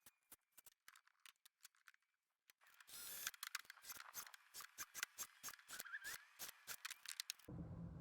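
A run of sharp, irregular clicks and taps, faint at first and louder from about three seconds in, with a low rumble coming in near the end.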